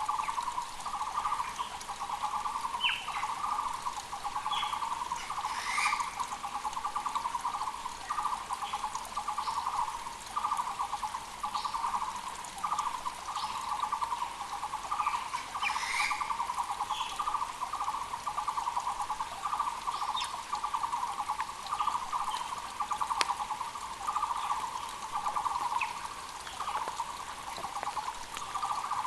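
Muller's (Taiwan) barbet calling without pause, a steady run of low repeated notes in quick rhythmic groups. Other birds give short, higher chirps here and there over it.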